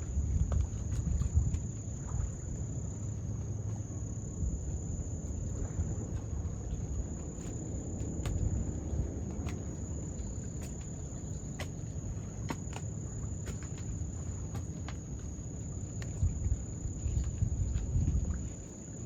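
Insects, crickets or katydids, trilling as one steady, unbroken high-pitched drone, over a loud low rumble with scattered clicks and a few heavier bumps near the start and near the end.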